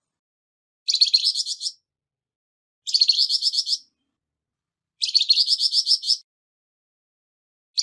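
Flamboyan bird singing its harsh call in short bursts, each a rapid series of high notes lasting about a second, with about a second of silence between bursts. Three bursts are heard, and a fourth begins right at the end.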